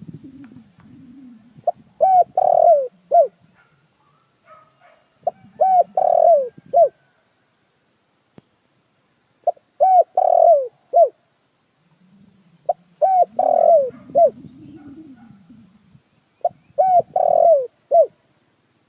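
Spotted dove cooing: a phrase of about four short coos, repeated five times at intervals of three to four seconds. A fainter, lower sound runs beneath some of the phrases.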